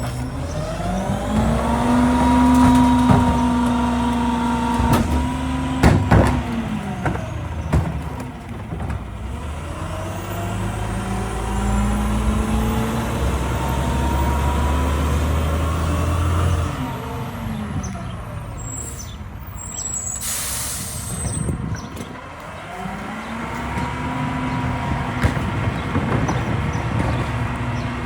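Diesel engine of a Mack LE rear-loader garbage truck revving up, holding a steady higher speed for several seconds and dropping back to idle, three times over. A short air-brake hiss comes about 20 s in.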